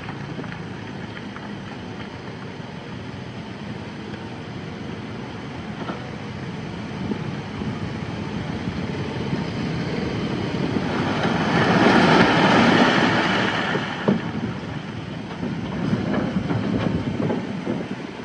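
Komatsu D21A mini bulldozer working, its diesel engine running with the steel tracks clanking. A louder rush of noise builds a little past the middle and lasts about three seconds.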